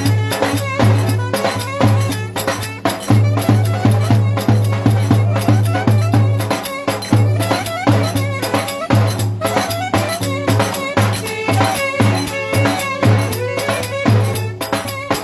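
Lively Turkish folk dance music played live, with a steady beat of percussion strokes over a pulsing bass.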